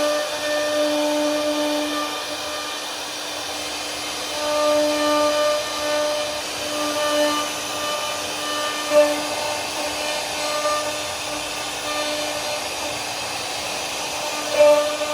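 CNC router spindle running steadily with a high whine while the bit carves wood. The cutting noise swells and fades as the tool moves through the pattern, with brief louder moments about nine seconds in and near the end.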